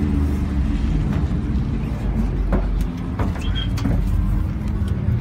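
Car engines running close by with a low, steady rumble. A few sharp clicks come about halfway through.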